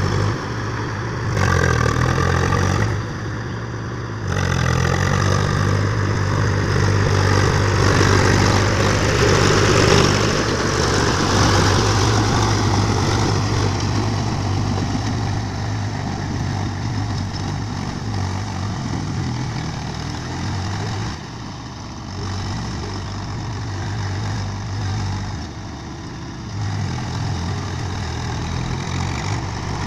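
Swaraj tractor's diesel engine running steadily while pulling a plough, its note dipping briefly a few times.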